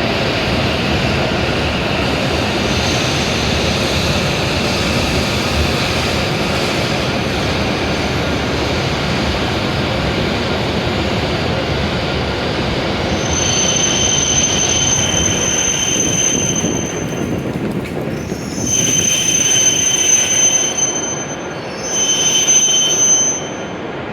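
W7 series Shinkansen train running into the platform with a steady rumble, then braking to a stop with a high-pitched squeal that comes in three spells over the last ten seconds.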